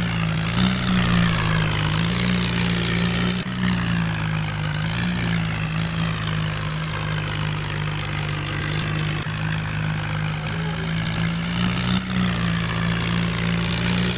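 Swaraj tractor engine running steadily, its pitch wavering slightly up and down.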